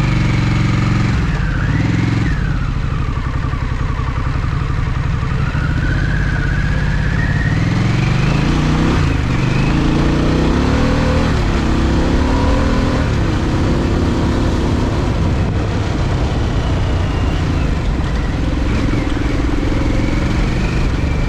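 Harley-Davidson V-twin motorcycle engine running while being ridden, its pitch rising and falling repeatedly with throttle and gear changes, over steady wind rush.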